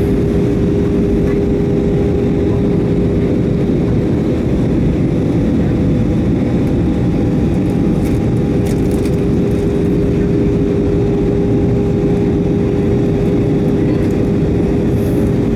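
Airbus A319 cabin noise in flight: a loud, steady drone of engines and airflow with a constant hum running through it.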